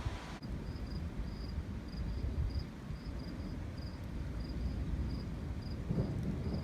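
A cricket chirping in short, high, evenly repeated pulses, about two or three a second, over a steady low rumble.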